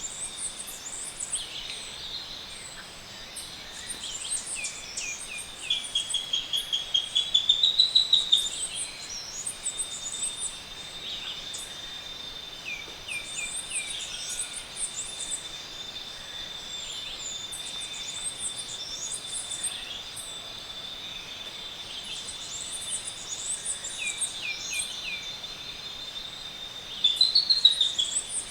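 Tropical forest bird chorus at dawn: many high chirps, and a louder song of quick notes that climbs into a rising trill twice, about six seconds in and near the end. A steady high-pitched hum runs beneath it.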